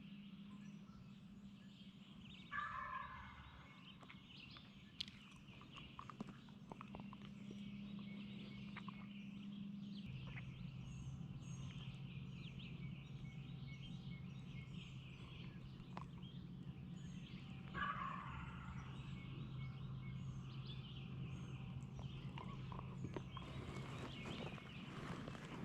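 Wild turkey gobbler gobbling twice, about 15 seconds apart, with songbirds chirping faintly in the background.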